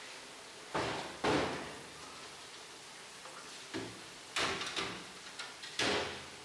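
Kitchenware being handled in a commercial kitchen: a handful of separate knocks and clatters, the loudest about a second in, over a steady hiss.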